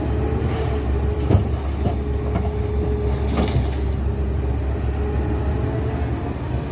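Heavy construction machine's diesel engine running steadily, with a steady whine over a low rumble and a couple of sharp knocks about one and a half and three and a half seconds in.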